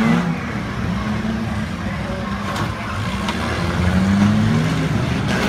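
Several car engines running and revving, their pitch rising again and again as the cars accelerate, over a steady drone.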